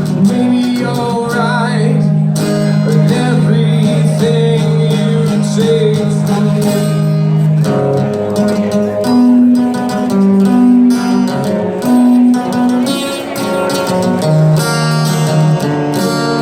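Live band music with guitar to the fore, held chords changing every second or two.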